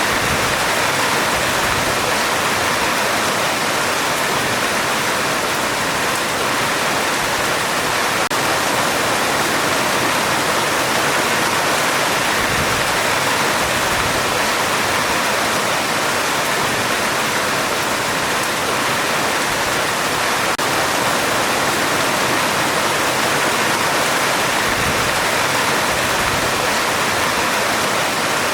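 Heavy rain falling steadily on a metal roof: an even, unbroken hiss with no thunder.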